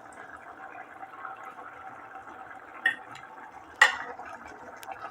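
Chicken karahi gravy simmering in the pot, a steady faint crackling bubble, with two sharp knocks of a utensil against the pan about three and four seconds in, the second louder.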